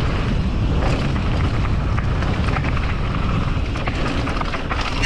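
Heavy wind buffeting the camera microphone, with the rumble of mountain bike tyres on a dirt trail and scattered short rattling clicks from the bike.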